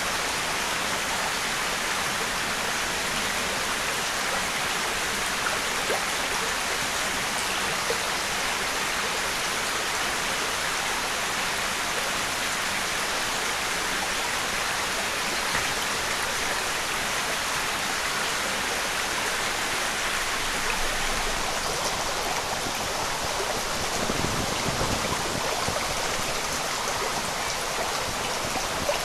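Steady rushing, hissing water noise with no pauses or rhythm, like running water or rain.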